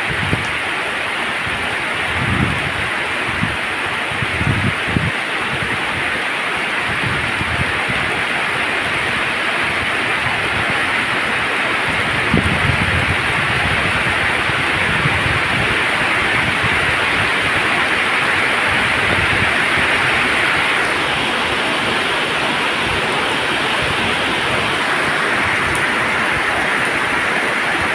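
Heavy rain falling steadily on a wet road and lawn, a dense even hiss, with a few brief low rumbles in the first half.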